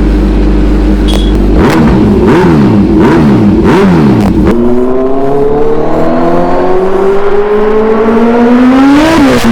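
Kawasaki Z1000's inline-four engine breathing through an Arrow full-system aftermarket exhaust: idling steadily, then four or five quick throttle blips, then the revs climbing steadily for several seconds before dropping off sharply near the end.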